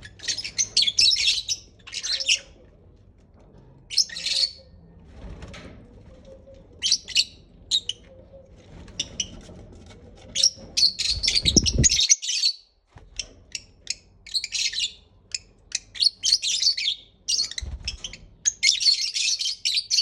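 Lovebirds, Fischer's and rosy-faced, chirping and chattering in rapid clusters of sharp, high notes with short pauses between them. There is a brief dropout about twelve seconds in. This is excited breeding chatter, used to stimulate lovebirds to mate.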